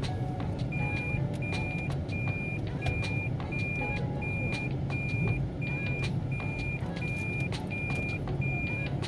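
Vehicle reversing beeper sounding a short, high, even beep about three times every two seconds, starting about a second in, over the low hum of a running vehicle engine.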